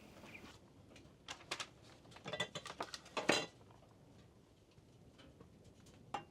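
A cluster of light clinks and clicks between about one and three and a half seconds in, like small hard items being handled, then one more click near the end.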